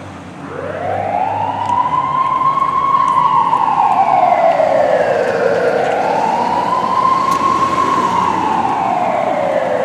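Fire engine siren, a Southern VP, starting up about half a second in and wailing slowly, rising and falling twice. A vehicle engine runs low underneath for the first couple of seconds.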